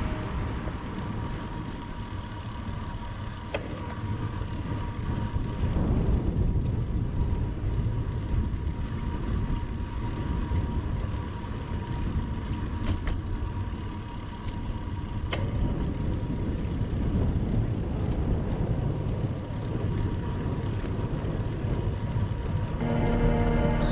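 Wind buffeting the microphone of a camera riding along on a moving bicycle, a low rumble that rises and falls, with a thin steady whine underneath.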